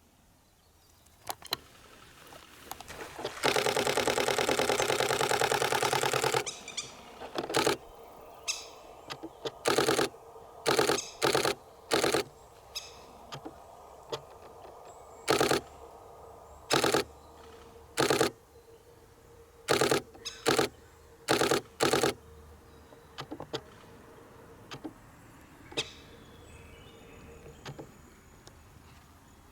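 Nikon D500 DSLR shutter firing in rapid bursts: one continuous burst of about three seconds a few seconds in, then about a dozen short bursts of a few frames each, one to two seconds apart.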